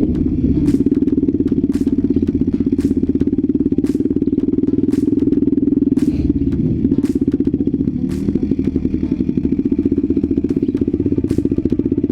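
Off-road vehicle engine running steadily while under way, easing off briefly twice, with sharp knocks and clatters about once a second from the ride over rough ground.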